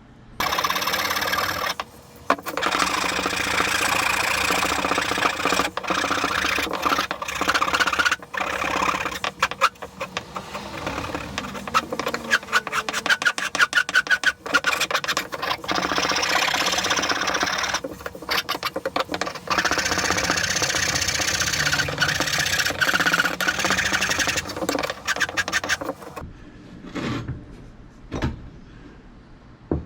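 Hand file rasping across a wooden axe handle in rapid back-and-forth strokes, carving a textured grip by hand. The strokes stop about 26 seconds in, followed by a few light knocks.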